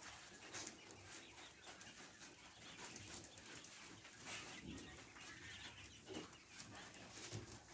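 Faint, scattered short calls of caged quail.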